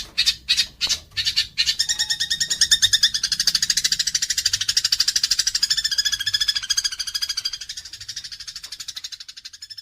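A songbird singing: a few loud separate harsh notes, about three a second, then a long, fast, buzzy trill of rapidly repeated notes that slowly fades near the end.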